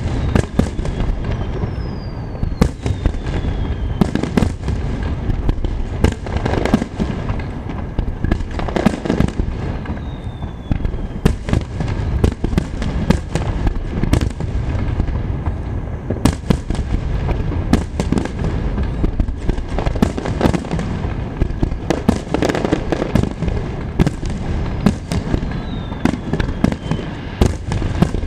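Fireworks in a rapid computer-timed starmine barrage: shells bursting in quick succession over a continuous rumble, with a few falling whistles.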